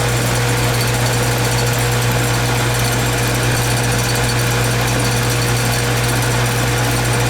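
Goodman heat pump's outdoor unit running steadily during a refrigerant pump-down, with a strong low compressor hum, a thin steady tone above it and even fan noise. The suction service valve is closed to push the refrigerant into the condenser.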